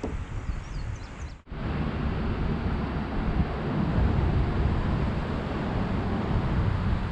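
Wind noise on a GoPro's microphone: a steady, low-heavy rush, after a brief dropout about a second and a half in.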